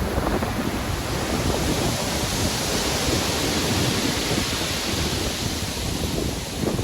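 Stormy sea: ocean waves breaking and washing in, with wind and a steady low rumble. A wave's hiss swells and fades in the middle.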